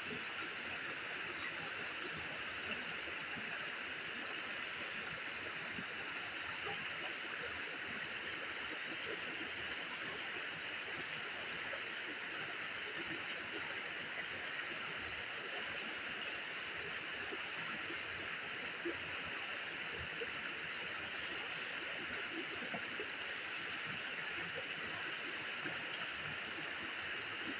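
Steady, even rushing noise with faint scattered ticks throughout.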